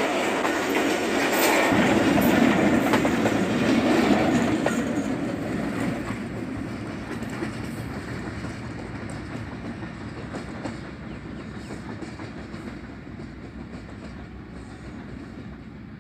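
Passenger train coaches rolling past, steel wheels clacking over rail joints. The last coach goes by about four or five seconds in, and the rumble then fades steadily as the train draws away down the line.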